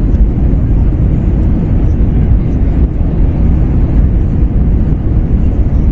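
Airbus A321 cabin noise on final approach, heard from a window seat: a steady, deep rumble of the CFM56 engines and airflow along the fuselage.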